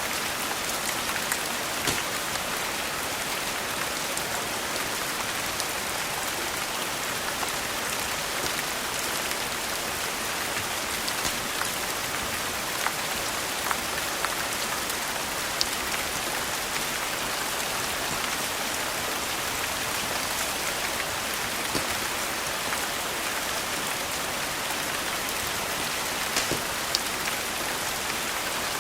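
Steady rain falling, an even hiss with scattered sharp clicks and pops throughout.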